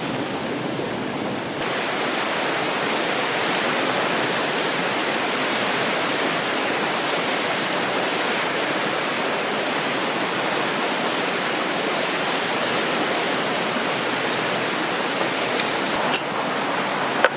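River water rushing steadily. A few sharp clicks come near the end.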